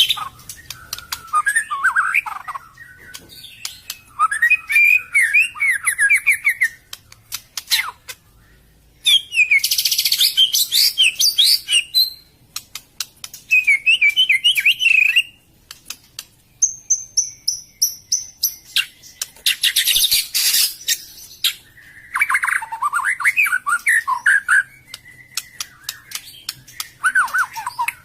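White-rumped shama (murai batu) singing: a string of varied phrases a second or few long with short pauses between, mixing rapid chattering trills with clear sliding whistles, along with scattered sharp clicks.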